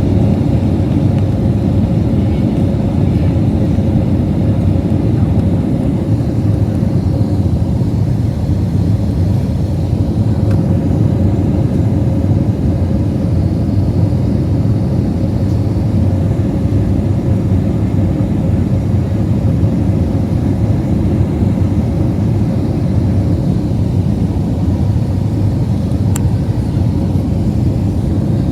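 Steady cabin noise inside an Airbus A320 on its landing approach: a deep, even rumble of engines and airflow with a thin constant hum running through it.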